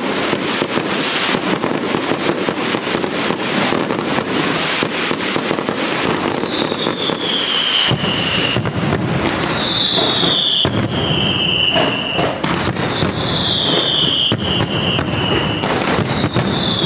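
Daylight fireworks barrage: a dense, continuous crackle of rapid firecracker bangs. From about six seconds in, high whistles falling in pitch cut through, four of them about three seconds apart.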